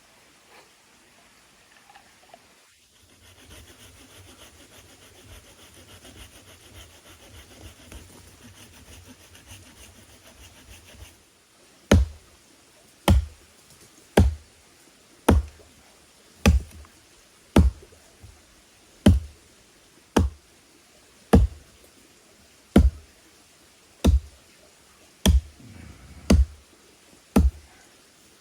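A series of sharp knocks, each with a low thump, coming about once a second and not quite evenly, over the second half; before them only a faint, even background.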